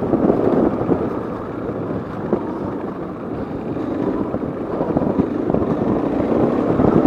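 KTM 450 EXC single-cylinder four-stroke dirt bike engine running while riding along a dirt track, with wind buffeting the onboard microphone. The sound eases a little about two to three seconds in, then builds again toward the end.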